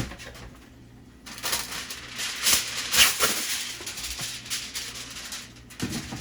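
Aluminium foil being handled and crinkled, a dense rustling crackle that starts about a second in and dies away near the end.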